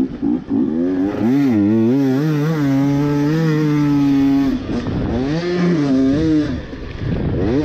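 Husqvarna TE250i 250 cc two-stroke dirt bike engine revving hard, its pitch rising and falling with the throttle through the gears. It is cut off sharply twice, about halfway and again near the end, before picking back up.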